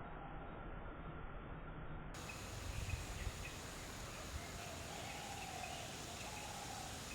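Steady outdoor background hiss with faint, distant bird calls. About two seconds in, an edit brings in a brighter, fuller hiss, followed shortly by a few low bumps.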